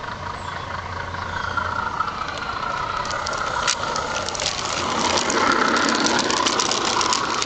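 LGB garden-railway model of the HF130c diesel locomotive running on the track, with a steady whine and, from about three seconds in, a rapid clicking. It grows louder as it comes closer.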